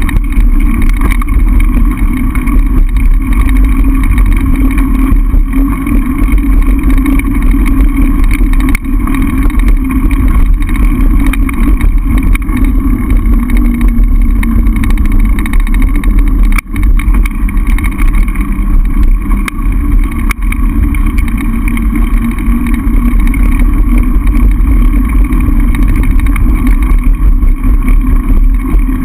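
Steady rushing noise of wind buffeting the camera microphone on a fast mountain-bike descent, with the bike's tyres and frame rattling as many small clicks and knocks. It dips briefly about two-thirds of the way through.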